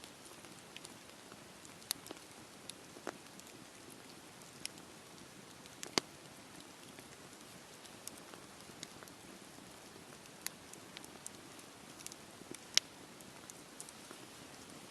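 Wood fire burning in a fireplace: a steady soft hiss with irregular crackles and sharp pops, the loudest about six seconds in and again about thirteen seconds in.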